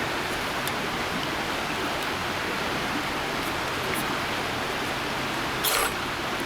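A single short scrape of a ferro rod striker throwing sparks onto a wax-soaked cotton-pad fire starter, about three-quarters of the way through, over a steady background hiss with a few faint clicks.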